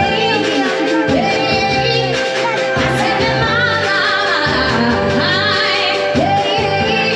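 A woman singing a melody over a backing track with steady accompanying notes.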